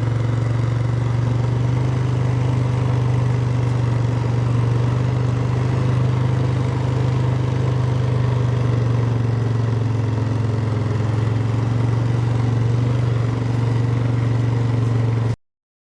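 An engine running steadily at one constant low pitch, then cutting off abruptly about a second before the end.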